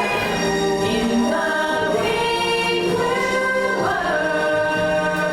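Show music with a choir singing sustained, wordless chords.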